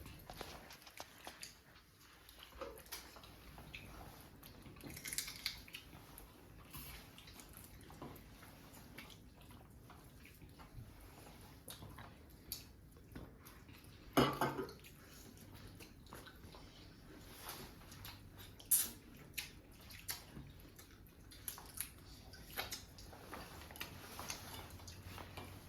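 Scattered light clicks and clinks of dishes and cutlery being handled, with one louder knock about fourteen seconds in.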